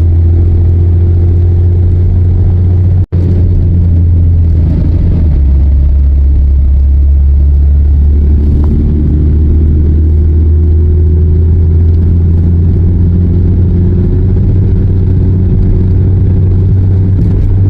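Car engine running with road rumble, heard from inside the cabin while driving; the engine note steps down a little about five seconds in. The sound drops out for an instant about three seconds in.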